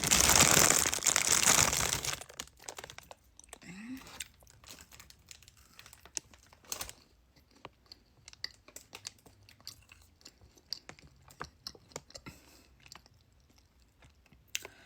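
A plastic snack wrapper crinkling loudly for about two seconds as it is opened, then gingerbread being eaten: scattered small crunches and quiet chewing, with a short rising hum about four seconds in.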